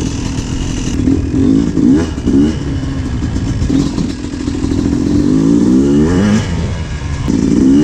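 Yamaha YZ250 two-stroke single-cylinder dirt bike engine revving under way, with three quick throttle blips about two seconds in, a longer climb in revs around five to six seconds, and another rise near the end.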